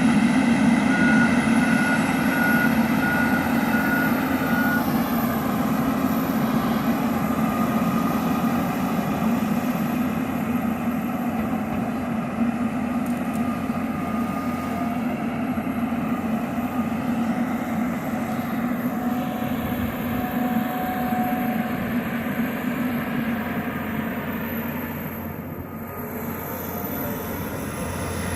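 John Deere 350G LC hydraulic excavator's diesel engine running steadily under working load. The drone eases off slightly near the end.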